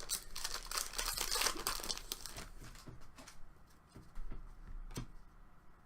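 Plastic trading-card pack wrapper crinkling and tearing, dense for the first two seconds or so. It thins to a few scattered sharp clicks and taps, the loudest about five seconds in.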